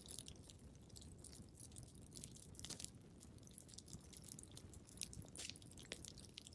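Wood fire crackling in a fireplace: irregular small snaps and pops over a soft low rumble, with a sharper pop just before the three-second mark and another about five seconds in.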